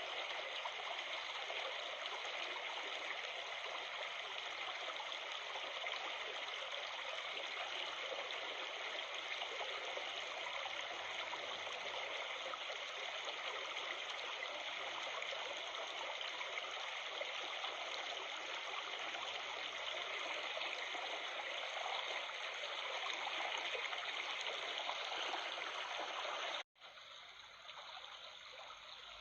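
Running water babbling in a stream, a steady splashing rush. Near the end it cuts out abruptly for an instant and comes back quieter.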